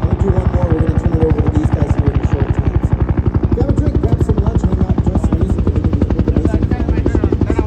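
B-25 Mitchell's twin Wright R-2600 radial engines running loud and steady, with a fast, even propeller throb of about a dozen beats a second.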